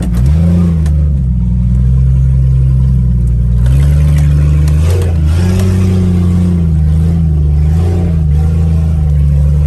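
Jeep Cherokee engine running loud and low, revving up and easing off several times as it climbs a rough trail. The exhaust has come off, so the engine sounds without any muffling.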